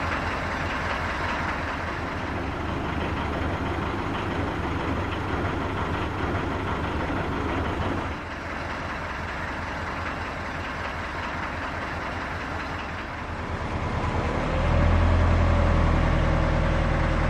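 Narrowboat's diesel engine running steadily, with an abrupt change about halfway through and louder, heavier running for the last few seconds.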